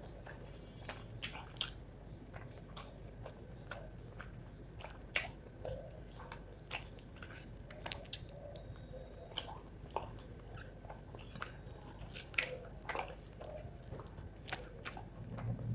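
A person chewing and biting rice with spicy chicken liver, close-miked. There are irregular wet mouth clicks and smacks, a few louder than the rest.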